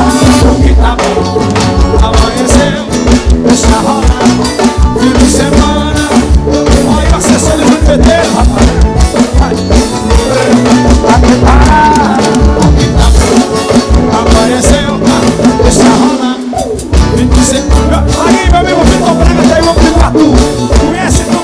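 Forró band music with a steady drum beat; the bass and drums drop out briefly about sixteen seconds in.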